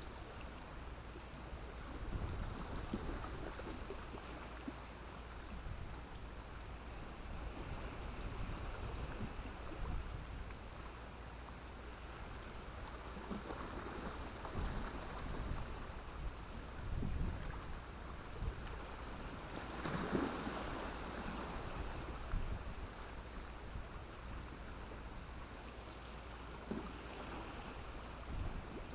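Small sea waves washing in and out on a beach of black stones and sand, a steady wash that swells now and then, most strongly about two-thirds of the way through.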